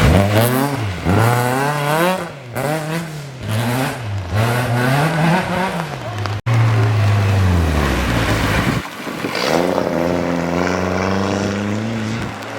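Rally car engine revving hard, its note rising and falling over and over as the throttle is blipped and worked. After a sudden break it settles into a steady note that drops away, then climbs again as a car accelerates.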